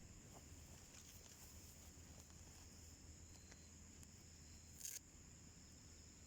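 Faint wood fire burning in a homemade wood stove: a few soft crackles and one sharper pop about five seconds in, over a steady high-pitched insect drone.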